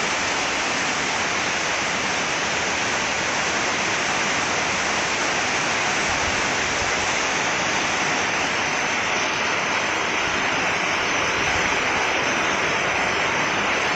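Heavy rain pouring down without a break, a dense, steady hiss.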